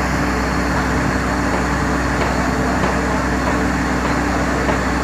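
Borewell drilling rig running steadily: a constant machine drone with several steady low hum tones.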